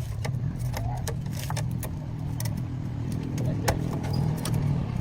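A machine running with a steady low rumble, with many sharp clicks and clinks scattered over it.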